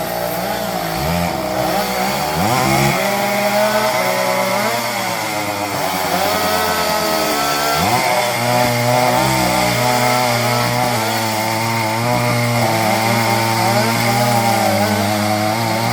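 Two-stroke chainsaw running, its engine pitch dropping and climbing back a few times as it is revved and eased off, typical of cutting up a fallen tree.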